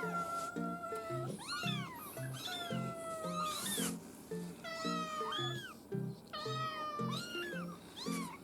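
Young kitten mewing over and over in short high calls that rise then fall in pitch, about two a second, over light background music.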